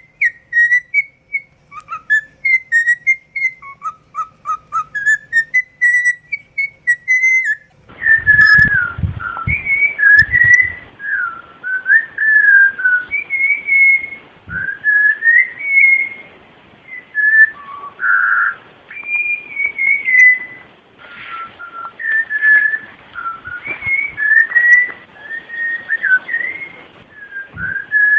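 A songbird singing in clear whistled phrases of short, gliding notes. About eight seconds in, the recording changes: a steady hiss appears under the song and a few low thumps follow.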